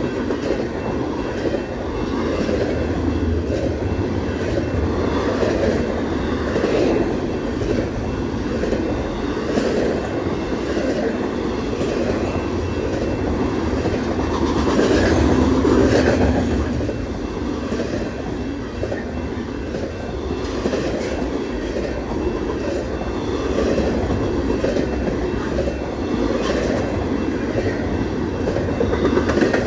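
BNSF westbound intermodal freight train rolling past: a steady rumble of steel wheels on rail, with scattered clicks from the wheels over rail joints. It swells a little about halfway through.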